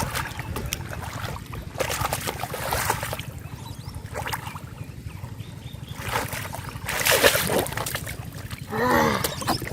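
Water splashing and sloshing in irregular bursts, from hands working through shallow river water, over a steady low rumble. A short vocal exclamation comes near the end.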